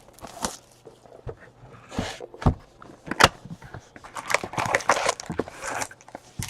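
Trading cards and packs being handled: scattered sharp taps and clicks with short bursts of sliding and rustling.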